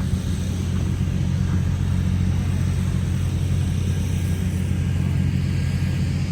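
An engine running steadily at a constant speed, a low even rumble.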